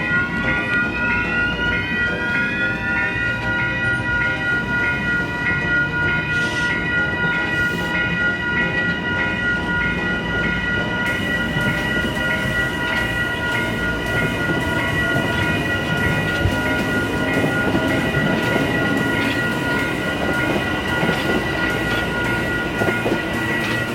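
Commuter train running at a station, with a rumble and several high whining tones that rise in pitch over the first few seconds and then hold steady.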